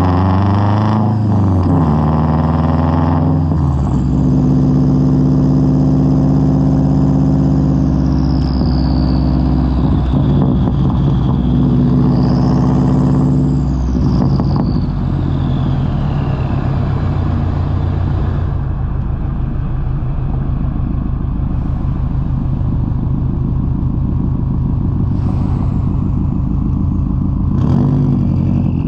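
Exhaust note of a 2003 Subaru WRX's turbocharged flat-four through a Tomei straight-pipe exhaust while driving. The engine rises and falls in pitch several times as it pulls through the gears and eases off, settles into a steady lower drone for a long stretch, then climbs again near the end.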